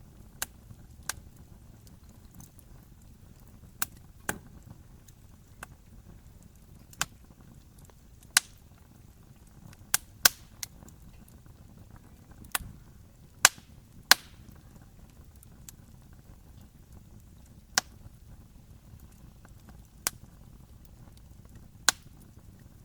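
Wood fire crackling: sharp pops at irregular intervals, some loud and some faint, over a steady low rumble of burning.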